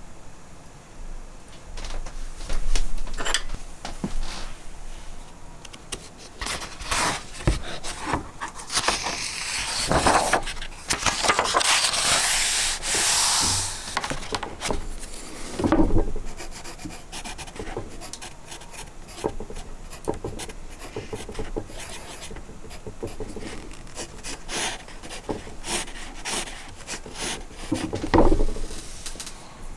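Irregular rubbing and scraping strokes with scattered knocks and clicks, as in hand work on a surface. A denser, longer scrape runs from about nine to fourteen seconds in, and there are heavier knocks a few seconds in, at about sixteen seconds and near the end.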